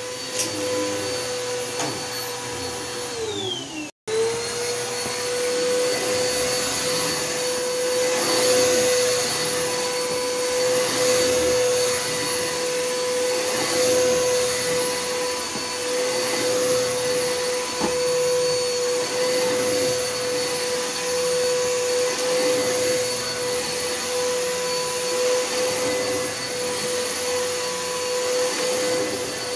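Bissell Helix vacuum cleaner running with a steady, high motor whine over rushing air. Just before the 4 s mark the pitch sags and cuts out for an instant, then climbs back up and holds steady.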